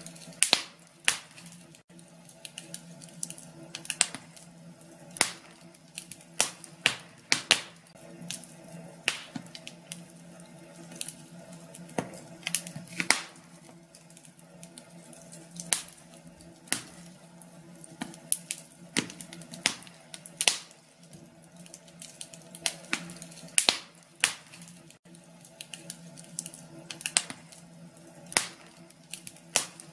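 Wood fire in a fireplace crackling, with irregular sharp pops and snaps of varying loudness over a faint, steady low hum.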